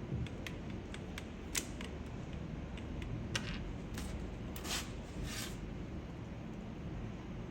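Hands working on a mechanical keyboard: scattered light clicks, then several short scratchy rustles of parts or foam being handled.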